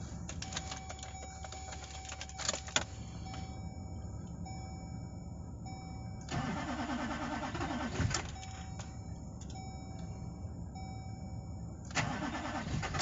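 GMC Duramax diesel pickup's starter cranking the cold engine in two short tries, one about six seconds in lasting about two seconds and another near the end, without the engine catching. A few clicks come before the first try.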